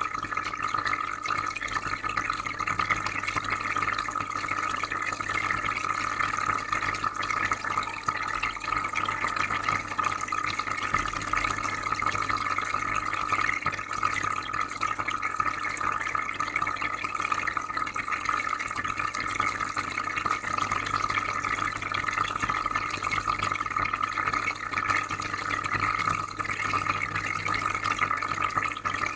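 Shrimp aquarium water bubbling and trickling steadily, with a filter's low hum underneath.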